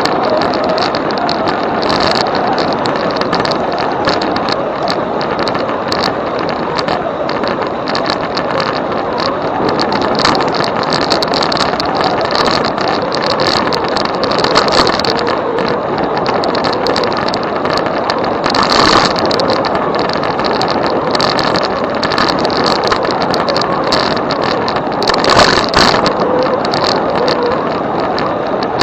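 A moving e-bike's ride noise: a steady rush with constant small rattles and clicks, and two louder rattling surges, about two-thirds of the way through and near the end.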